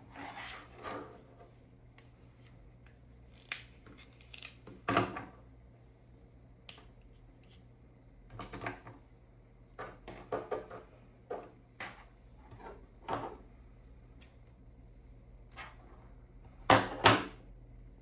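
Hands handling an Ethernet cable, keystone jack and tools: scattered rustles, clicks and knocks, the loudest a quick pair of knocks near the end.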